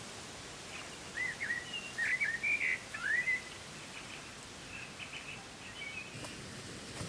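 A songbird singing a quick burst of rising and falling chirping notes about a second in, then fainter chirps, over a steady background hiss of forest ambience.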